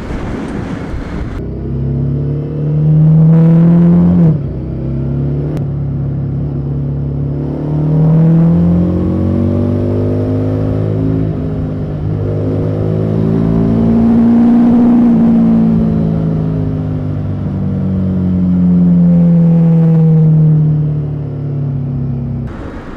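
Harley-Davidson Street 750's V-twin running through its stock exhaust while riding, the revs climbing and easing off several times. The pitch drops sharply about four seconds in.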